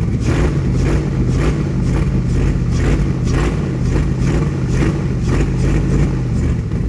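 A 5.3-litre LS V8 running steadily, with a regular pulse about twice a second. It is running well on newly fitted 1650 cc injectors after some quick fuel tuning: it sounds pretty decent.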